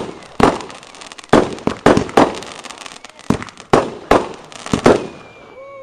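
Consumer fireworks going off: a quick, irregular string of about ten sharp bangs with crackling between them, and a thin falling whistle near the end.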